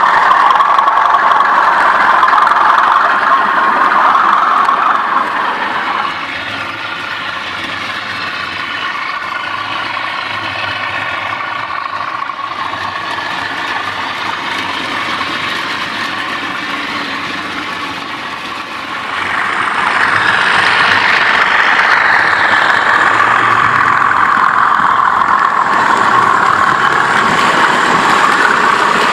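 Two model Class 37 diesel locomotives running coupled together on a model railway, giving a steady diesel engine sound. It is louder at first, drops noticeably about six seconds in, and swells back up about two-thirds of the way through.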